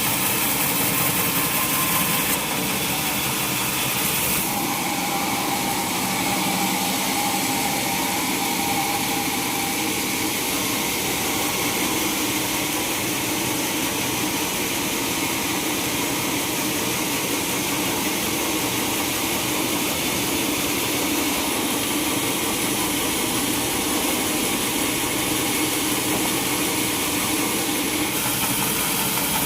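Sawmill machinery running steadily: an engine-driven saw with a constant mechanical drone and a hiss.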